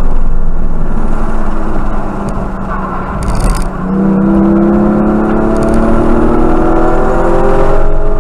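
Porsche Cayman GT4's flat-six engine heard from inside the cabin on a racetrack. It eases off and goes quieter for a couple of seconds as the car slows into a corner, then pulls hard in third gear, its pitch rising steadily from about four seconds in.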